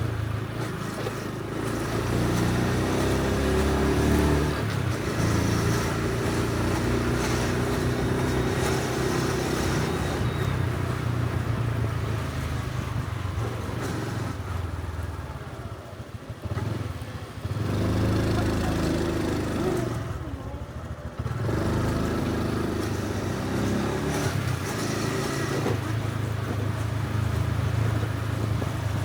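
Honda Super Cub C125's single-cylinder four-stroke engine running on the move, its pitch stepping up and down with throttle and gear changes. The level drops briefly twice around the middle as the throttle is eased off.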